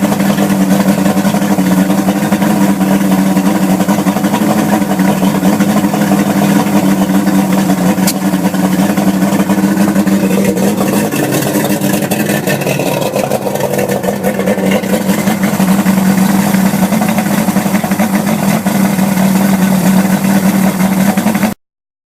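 Johnson two-stroke outboard motor running steadily under way, a steady low drone under a noisy rush, the pitch shifting briefly about halfway through; the sound cuts off abruptly near the end.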